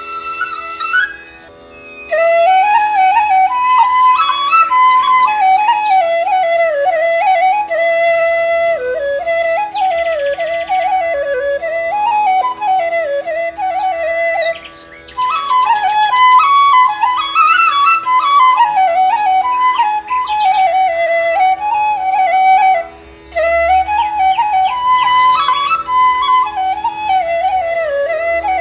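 Background music: a flute playing a winding melody over a steady drone, pausing briefly between phrases three times.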